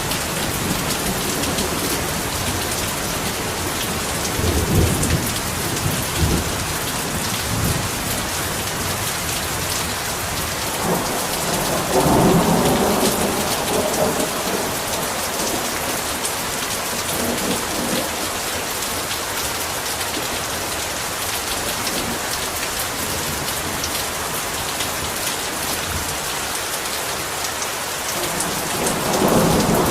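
Heavy rain falling steadily as an even hiss, with rolls of thunder rumbling through it: a short one about five seconds in, a louder, longer roll around twelve seconds in, and another building near the end.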